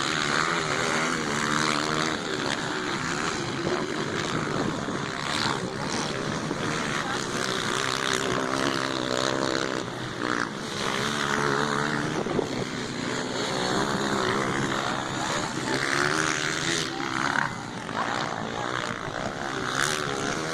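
Motocross dirt bike engines running and revving, their pitch rising and falling continuously.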